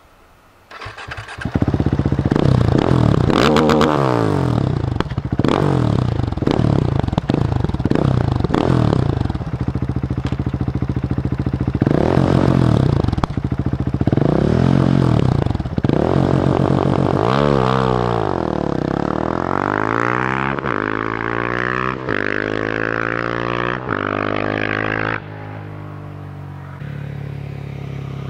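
Husqvarna 701 supermoto's single-cylinder engine revved hard again and again with the bike standing, the revs swinging up and down and then climbing and held high under launch control, with crackling pops from the exhaust. About 25 seconds in it drops back to a lower, steadier running.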